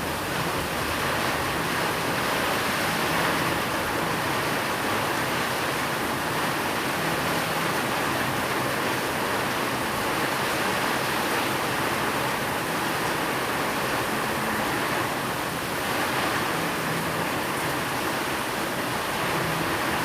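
Rain falling steadily as an even, unbroken hiss.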